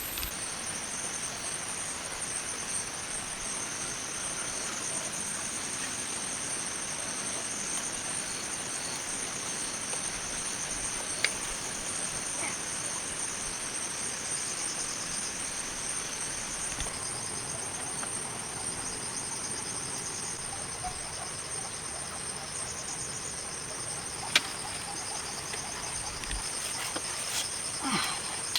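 Steady high-pitched chorus of rainforest insects trilling continuously, with a single sharp knock about 11 seconds in and another about 24 seconds in.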